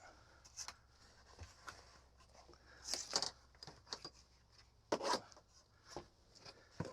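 Scattered rustling and scraping with a few light knocks as objects are handled and shifted by hand, in short bursts about every second or two, the loudest a few seconds in.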